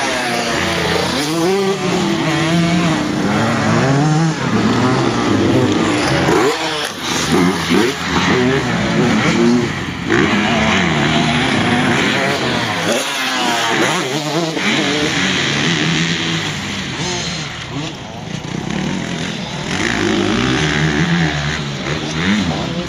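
Motocross bikes racing, their engines revving up and falling back as they shift and brake. At times more than one engine is heard at once.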